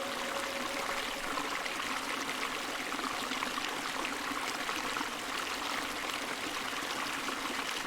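Steady running water, like a flowing stream, with an even rushing and trickling sound and no change throughout.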